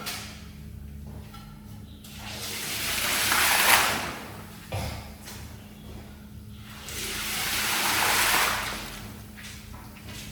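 Water rushing over a wet shaggy rug being washed, in two long swells of hiss that build up and fade away, about 4 seconds apart.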